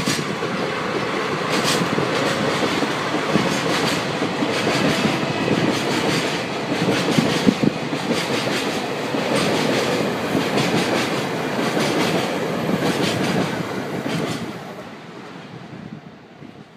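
Freight train of Taki 1000 tank wagons, led by a pair of DD51 diesel locomotives, rolling past close by with a steady clickety-clack of wheels over rail joints. The sound falls away about fifteen seconds in as the last wagon goes by.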